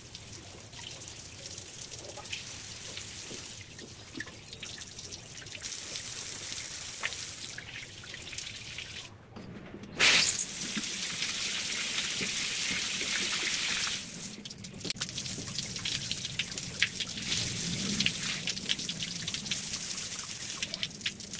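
Water spraying from a PVC pipe rain shower head and splashing down as a steady hiss. It stops briefly just before the middle, then runs louder.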